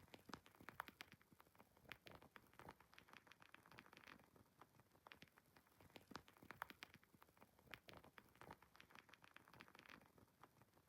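Quiet wood fire in a fireplace crackling: a soft hiss with frequent irregular pops and snaps.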